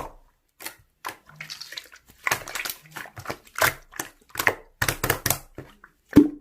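Hands squishing and poking slime: an irregular run of short wet, sticky clicks and pops.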